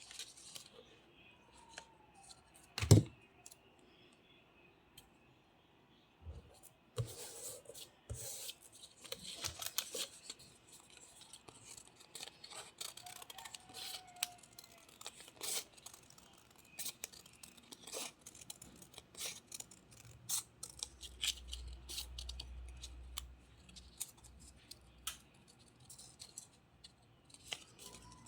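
Scissors cutting paper and cardstock, with repeated short snips and paper handling, and one loud knock on the work surface about three seconds in.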